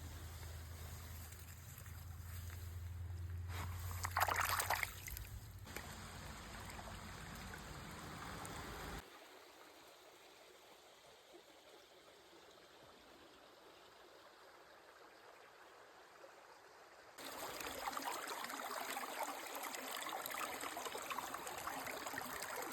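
Creek water trickling and flowing in a steady rush. It drops sharply to a quieter level about nine seconds in and comes back louder near the end, with a brief louder surge a few seconds in.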